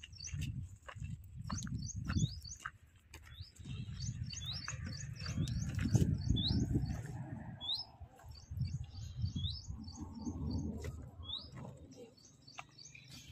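Small birds chirping in quick runs of short, hooked notes, over footsteps and scuffing on stony ground as a heavy sack is carried and set down.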